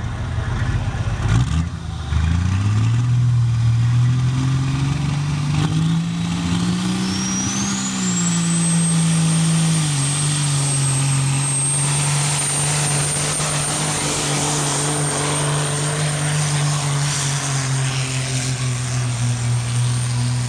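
Kenworth pro stock semi truck's diesel engine pulling a sled under full load. It revs up over the first few seconds, drops back in pitch about ten seconds in, then holds steady, with a high turbo whistle that rises and then holds.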